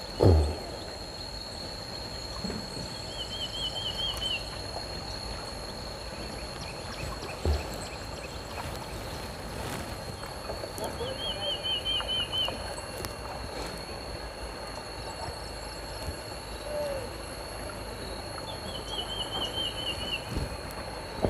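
A bird repeats a short warbling trill three times, about eight seconds apart, over a steady high whine and outdoor background noise. Two low knocks come, one right at the start and one about seven and a half seconds in.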